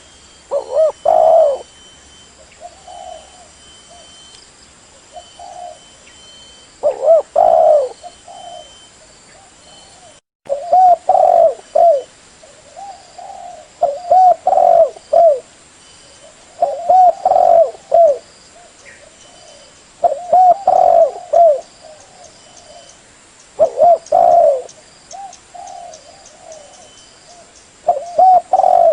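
Spotted dove (terkukur) cooing: loud phrases of a few short, low coos repeated every few seconds, with quieter coos in between.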